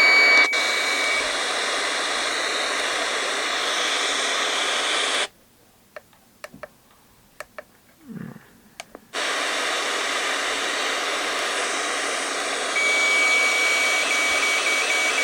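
Spirit box radio static: a steady loud hiss that cuts out suddenly about five seconds in, leaving a few seconds of near silence with small clicks, then comes back. Near the end a high electronic tone starts and turns into a rapid beeping.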